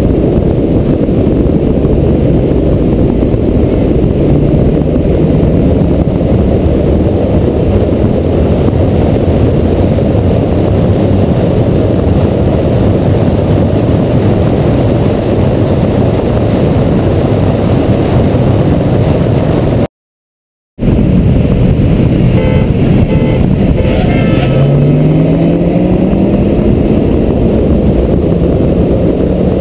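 Car running at high speed with a heavy, steady rush of wind and road noise and a faint engine note underneath. After a brief dropout about two-thirds of the way in, the engine note climbs in pitch as the car pulls harder.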